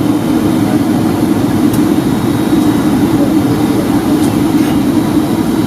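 Steady cabin roar of a Boeing 757-200 on approach: the Rolls-Royce RB211 engines and rushing airflow, with a faint steady high whine.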